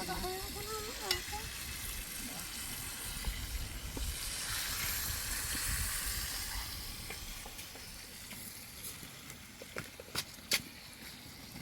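Food sizzling as it fries in a pan, a steady hiss, with a few sharp clicks near the end.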